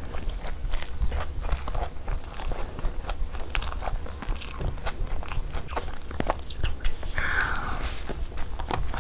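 Close-miked chewing and biting of puri with egg masala: wet mouth sounds and irregular soft clicks, with a brief scratchy noise about seven seconds in.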